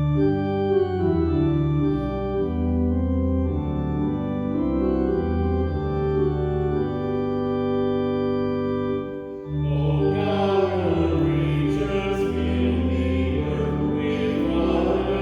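Church organ playing the opening hymn in sustained chords, with singing joining in about ten seconds in.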